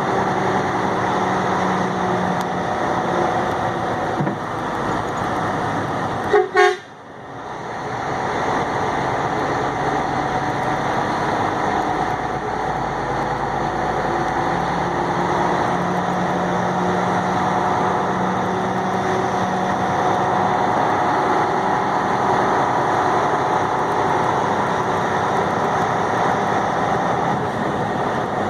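Truck engine and road noise running steadily inside the cab, with two short horn toots in quick succession about six seconds in.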